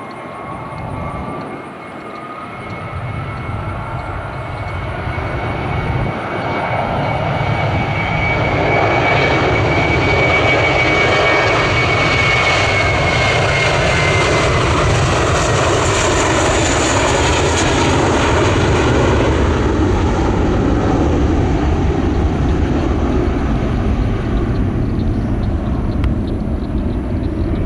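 Jet airliner engines growing steadily louder as the plane passes close, with a high whine that drops in pitch partway through.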